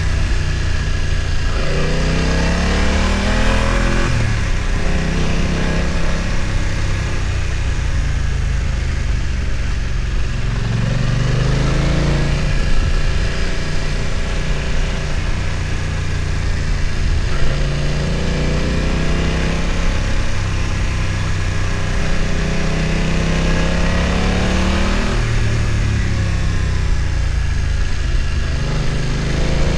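BMW F900 XR's parallel-twin engine pulling up a steep mountain track. The revs rise and fall back several times as the throttle is opened and closed.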